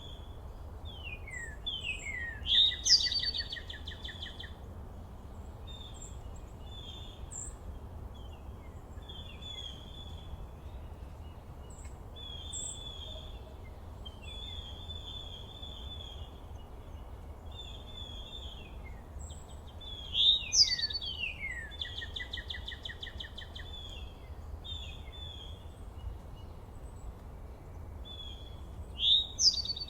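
Wild songbirds singing and calling, with short chirps and falling notes throughout. A louder song phrase comes three times, about two seconds in, near the middle and near the end, each a quick run of falling notes ending in a rapid trill. A steady low rumble lies underneath.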